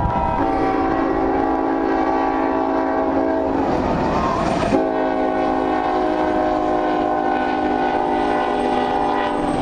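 Locomotive hybrid Nathan K5HLL five-chime air horn blowing two long blasts, the first from just under half a second in to about three and a half seconds, the second from about five seconds in to near the end. Beneath it is the steady rumble of light diesel locomotives passing at speed.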